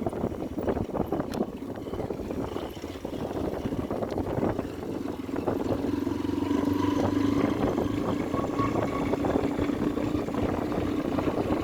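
Motorcycle engine running under way, with wind rumble on the microphone; a steady engine hum comes up and grows a little louder about halfway through.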